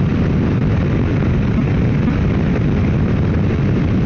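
Motorcycle riding at steady highway speed: a loud, even rush of wind on the microphone with the ride's engine and road noise underneath, unchanging throughout.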